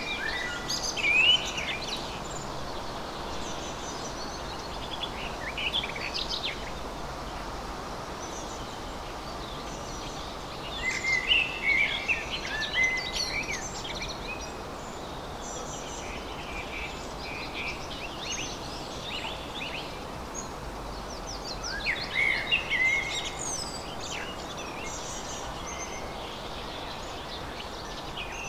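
Songbirds singing: short bursts of quick chirping phrases every several seconds over a steady background hiss.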